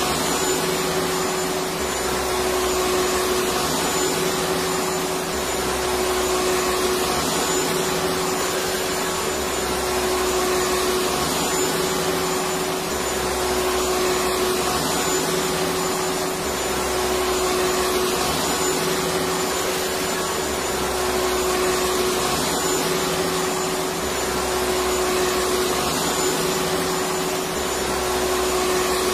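Electric vacuum cleaner running continuously: a steady rushing hum with a constant tone. Its low end swells and fades about every three seconds.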